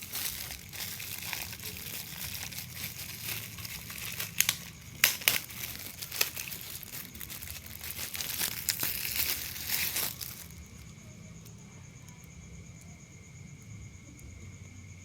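Packaging of a phone being unwrapped, crinkling and tearing, with a few sharp snaps near the middle. The crinkling stops about two-thirds of the way in, leaving a steady high-pitched tone and a low hum.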